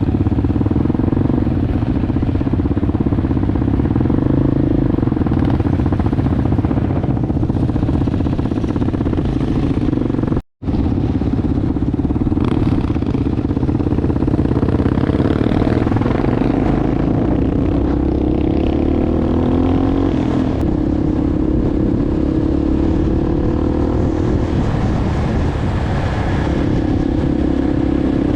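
Enduro motorbike engine running while riding, its pitch rising and falling as the throttle changes. About ten seconds in, the sound cuts out to silence for a moment.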